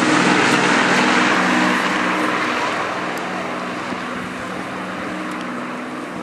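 Avro Lancaster bomber's four Packard Merlin V12 engines droning steadily with their propellers, fading gradually as the aircraft moves away.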